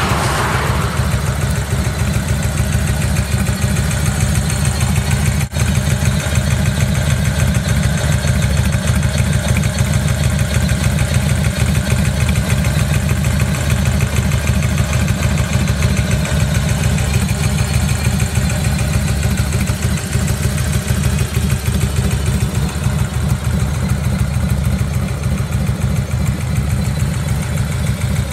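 Harley-Davidson Dyna Low Rider's Evolution V-twin idling steadily through a Vance & Hines 2-into-1 exhaust, a deep, even pulsing beat. A car passes right at the start.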